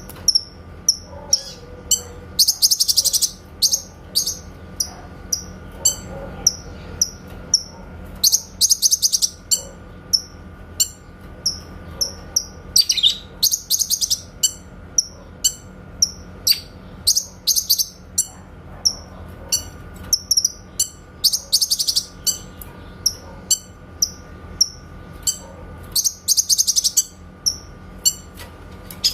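Cucak kinoy bird singing: short high chirps about once or twice a second, broken every few seconds by a rapid burst of fast repeated notes, the clear rapid-fire 'tembakan' song. A faint steady hum runs underneath.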